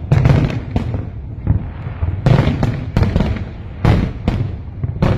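Aerial fireworks bursting in quick succession: about a dozen sharp bangs, roughly two a second, over a continuous low rumble of booms.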